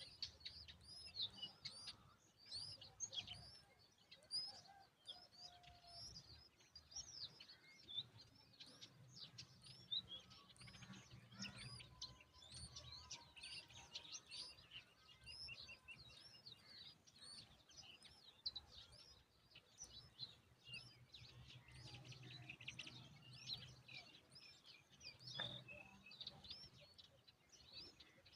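Himalayan bulbul chicks chirping: a dense, continuous stream of short, high chirps, several a second, under a faint low background rumble.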